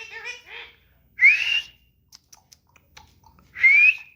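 A green parrot making a few short chattering notes, then two loud, rising shrill calls, one about a second in and one near the end, with a few faint clicks between.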